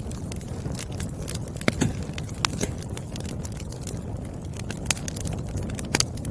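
Wood fire burning: a steady low rumble with scattered sharp crackles and pops of burning firewood, the loudest pops about two seconds in and near the end.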